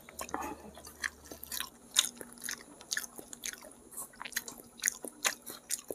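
A person chewing a mouthful of rice and tender goat-head curry meat, with irregular wet smacks and clicks of the mouth.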